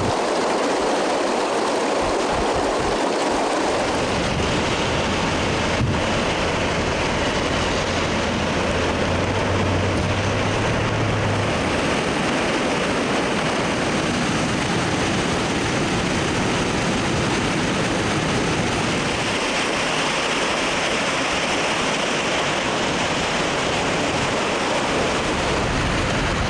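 Steady rushing of floodwater pouring past in a torrent, with a faint low hum underneath for roughly the first ten seconds.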